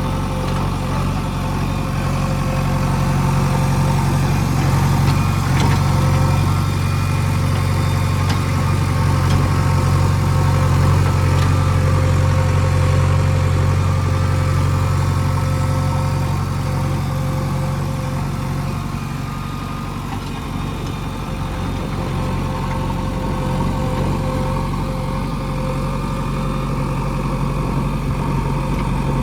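Diesel engine of heavy earth-moving machinery running steadily. It is louder through the first half, eases off about twenty seconds in, and picks up again shortly after.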